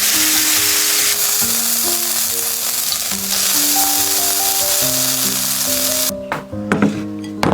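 Food sizzling loudly as it fries in a hot pan, cutting off suddenly about six seconds in. A few sharp clinks or knocks follow. Background music with slow, steady notes plays throughout.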